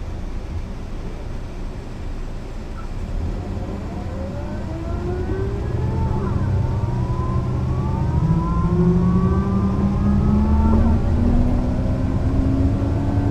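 Mercedes-Benz O 405 NÜ bus engine pulling away: a low rumble for the first few seconds, then the engine note rises steadily and grows louder as the bus accelerates.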